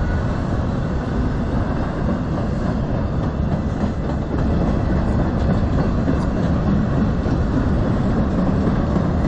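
Freight train cars, empty yellow TTX flatcars, rolling past with a steady rumble and rattle of steel wheels on the rails, getting a little louder about four seconds in.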